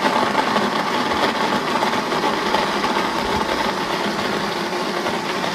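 Electric kitchen blender running steadily with an even motor whirr, a blender its owner calls weak and terrible.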